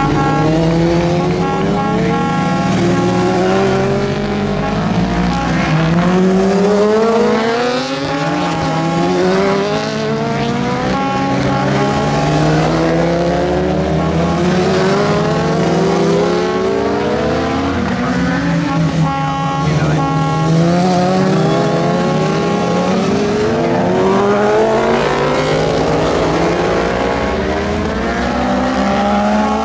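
Several superbike racing motorcycles' engines revving hard and accelerating through the gears, their pitches rising again and again and overlapping, with a few falling dips as machines pass.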